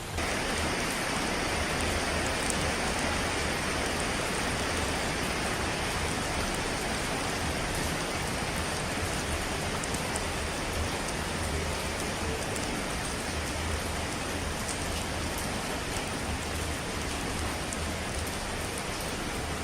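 Steady, dense hiss of falling water, like heavy rain, with a low rumble underneath.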